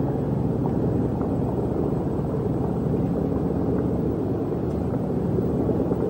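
Steady low mechanical rumble, even throughout, with no distinct knocks or changes.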